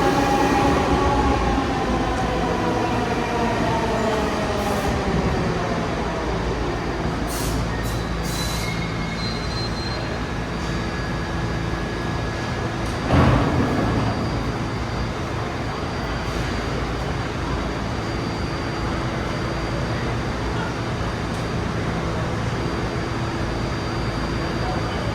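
New York City subway train in the station, its motor whine falling in pitch over the first five seconds as it slows, then a steady hum. One sudden loud burst comes about halfway through.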